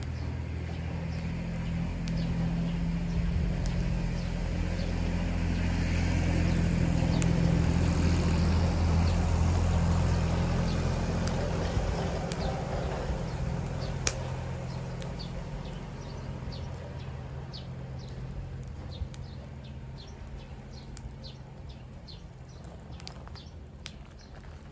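A passing engine's low rumble swells to a peak about eight seconds in and slowly fades, while a wood fire snaps and crackles with scattered sharp pops, more of them in the second half.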